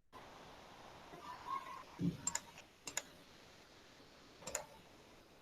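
A handful of sharp clicks on a computer keyboard, scattered from about two seconds in to near the end, with a dull knock just before the first, over a faint background hiss.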